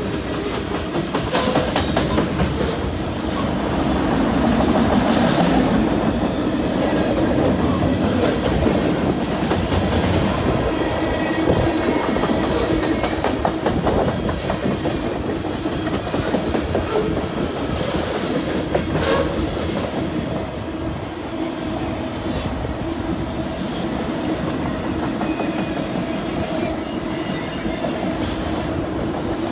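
Freight railcars, centerbeam lumber flatcars and then autoracks, rolling past at close range. The steel wheels make a steady rumble, with repeated clacks as they cross rail joints, over a steady low hum.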